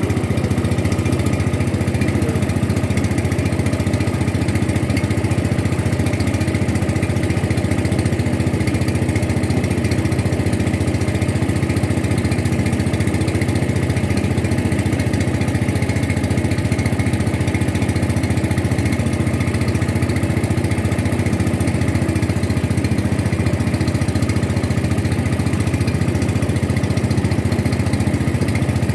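Boat engine running steadily at constant speed, a continuous drone that doesn't change.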